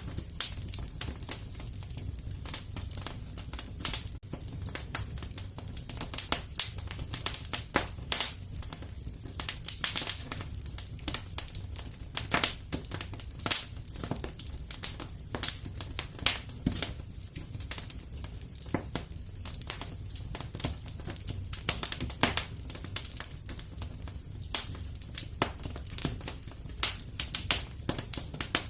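Wood fire crackling and popping in a fireplace: many irregular sharp snaps over a steady low rumble of burning.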